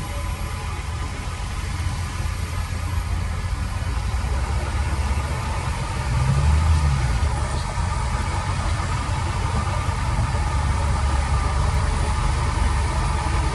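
Heavy earthmoving machine's diesel engine running steadily with a low rumble, swelling louder for about a second around six seconds in.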